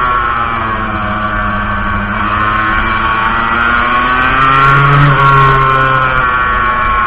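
Montesa Cappra 125's two-stroke single-cylinder engine heard from on board while riding. The engine note falls, climbs, drops sharply about five seconds in, then climbs again, as the throttle is opened and closed.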